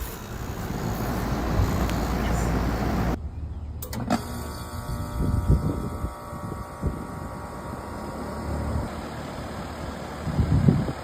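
2008 Goodman GSC13 3-ton central air conditioner condensing unit running. About three seconds in the sound changes abruptly with a couple of sharp clicks, and a steady hum carries on after them.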